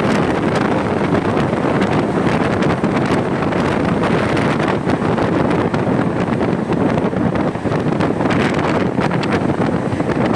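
Loud, steady wind noise buffeting the microphone of a motorcycle rider's camera at riding speed, drowning out most other sound.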